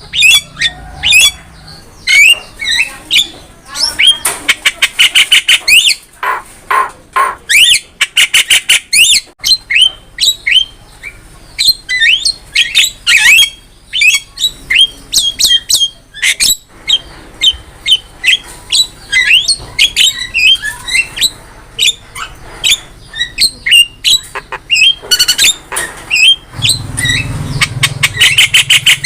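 Javan myna singing a loud, continuous, varied run of harsh squawks, rising whistles and quick rattling chatter.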